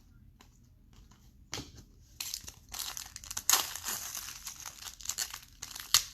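Plastic wrapper of a 2019 Optic baseball card pack crinkling as it is handled and torn open, starting faintly about a second and a half in and growing louder and busier.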